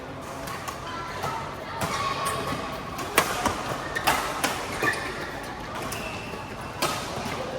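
Sharp racket-on-shuttlecock hits and thuds of a badminton rally, several in quick succession about three to five seconds in and one more near the end, over a murmur of voices in a large hall.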